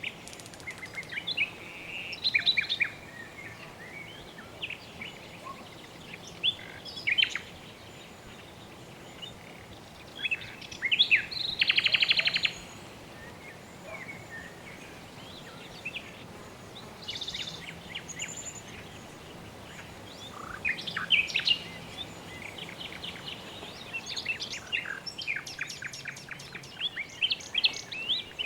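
Birds chirping and calling in scattered bursts over a steady background hiss, with a fast, loud trill about halfway through.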